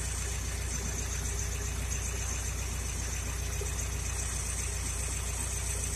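Honda B16A2 1.6-litre DOHC VTEC four-cylinder, fitted with Integra Type R cams, idling steadily, heard close to the crank pulley. The engine is still warming up, and its ignition timing is off, with the marks sitting too far forward before the distributor is adjusted.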